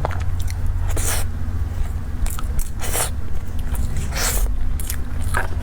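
Close-miked chewing and mouth sounds of someone eating cake: a few short, noisy smacks every second or so over a steady low hum.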